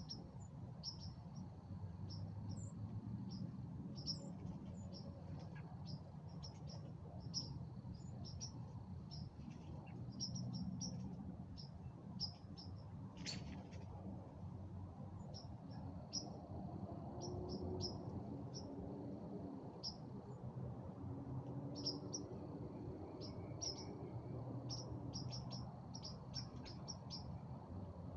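Small birds giving short, high chirps at irregular intervals, over a faint steady high-pitched tone and a low background rumble.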